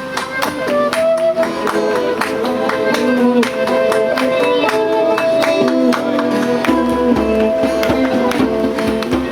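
Live folk-band music, instrumental: plucked strings and a held melody line over a steady percussion beat. A low bass comes in about two-thirds of the way through.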